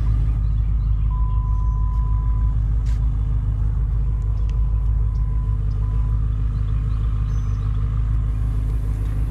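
BMW M5 F10's twin-turbo V8 idling, a steady low rumble.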